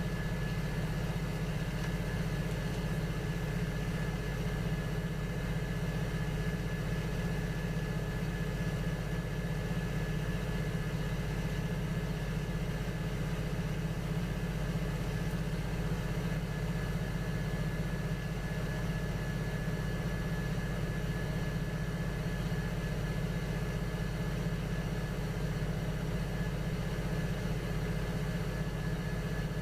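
Electric potter's wheel motor running steadily: a constant low hum with a thin high whine over it.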